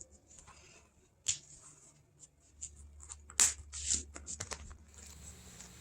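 Pencil scratching short, irregular strokes on the back of upholstery material as pattern lines and marks are drawn, with the material rustling and shifting under the hands.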